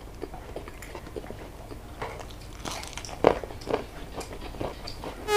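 Close-miked chewing of a mouthful of rice and fish eaten by hand, with wet mouth clicks and soft biting. A couple of sharper, louder clicks come about three and a half seconds in.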